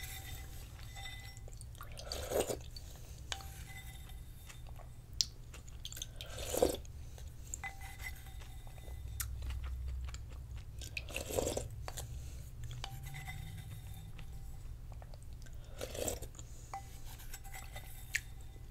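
Close-miked chewing of dumpling rice cake soup eaten from a spoon, with four louder short mouth noises a few seconds apart.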